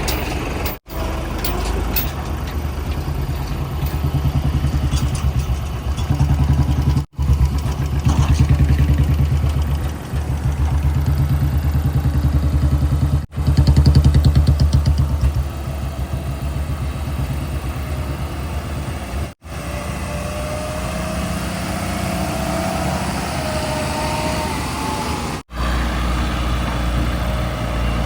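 Heavy diesel engines of earthmoving and haulage vehicles running steadily, at idle and under load, with brief full dropouts about every six seconds. A faint wavering whine comes in about three-quarters of the way through.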